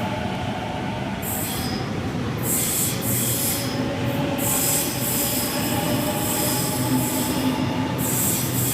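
Sydney Trains Waratah A-set electric train (set A18) pulling out of the platform: a continuous rumble of traction motors and wheels on rail, with high wheel squeal that starts about a second in and comes and goes.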